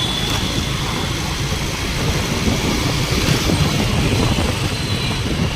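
Steady vehicle engine and road noise with a low rumble, heard from a vehicle on the move.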